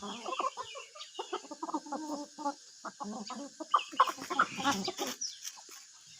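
Free-range chickens clucking, many short overlapping calls that die down about five seconds in.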